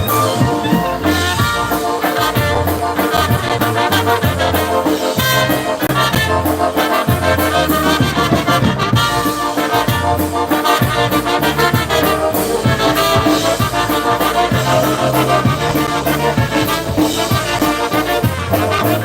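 Live polka band playing, brass horns carrying the melody over a steady bass line and beat.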